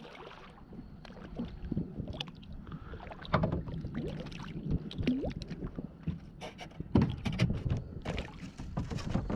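Irregular knocks, thumps and rattles in a kayak while a small, freshly caught leopard shark is handled and flops about.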